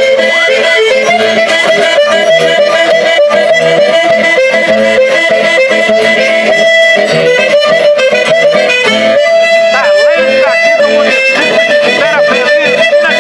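An eight-bass button accordion (sanfona de oito baixos) playing a lively folk tune over a steady beat, with plucked-string accompaniment.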